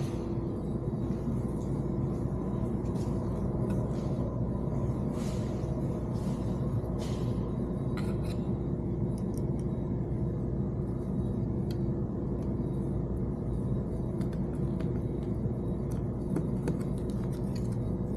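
Scattered light clicks and brief scrapes of radio and dash parts being handled during a car radio install, over a steady low rumble with a faint steady tone.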